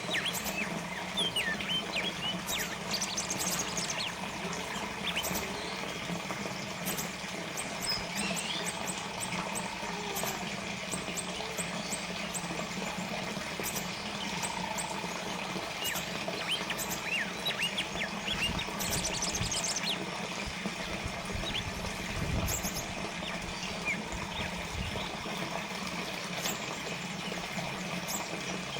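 Water trickling and splashing in a small fountain, under a low steady hum, while small birds chirp in short quick calls now and then.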